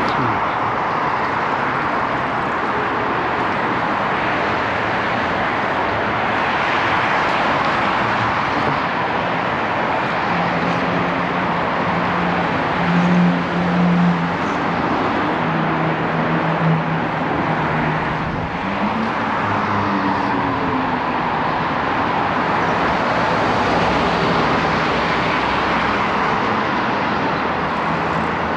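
Steady road traffic noise on a busy city street. Through the middle, a passing vehicle's engine hums, louder for a moment and then rising in pitch as it pulls away.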